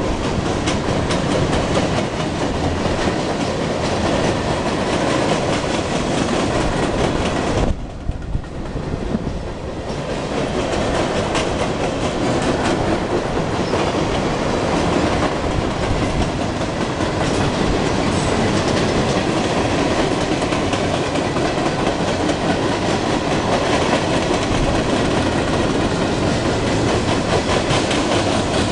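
Freight cars of a CSX train rolling past close by, first empty bulkhead flatcars and then tank cars. Their steel wheels clack over the rail joints under a steady rolling noise, which dips briefly about eight seconds in.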